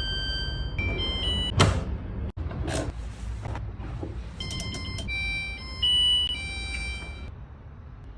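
Washing machine control panel playing a short electronic tune of high beeping notes that step from pitch to pitch, with a few knocks in between.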